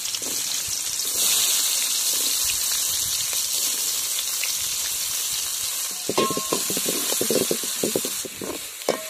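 Chopped onions and green chillies sizzling steadily in hot oil in a metal kadai, being sautéed for a tempering. About six seconds in, a steel ladle starts scraping and clattering against the pan as it stirs them.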